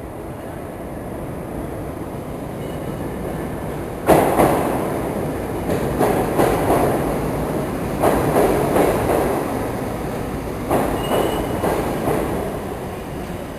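New York City Subway R62A train running on the rails: a rumble that grows over the first few seconds, then heavy clattering of the wheels over rail joints starting about four seconds in and recurring every two seconds or so, with a faint wheel squeal.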